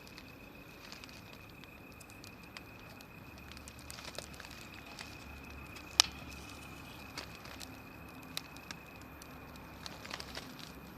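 Wood fire burning, with scattered light crackles and small pops and one sharp loud pop about six seconds in.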